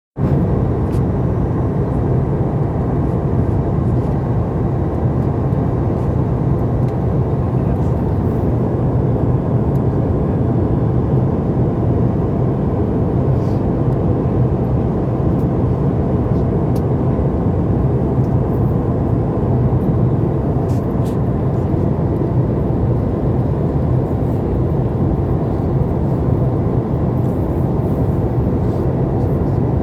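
Steady cabin drone of a Boeing 737 MAX 8 in flight, the rush of engine and airflow noise heard from inside the passenger cabin.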